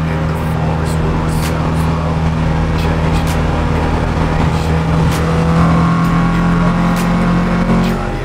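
Nissan Champ's swapped SR20 four-cylinder engine with individual throttle bodies running at steady cruising revs, heard from inside the cab while the pickup drives along.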